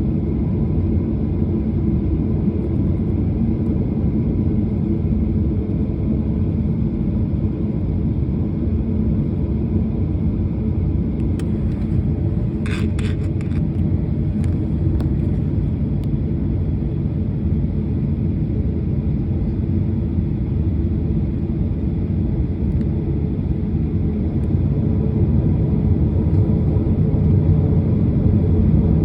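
Steady rumble of an airliner heard from inside the cabin, with a brief cluster of clicks about twelve seconds in. The rumble grows a little louder near the end.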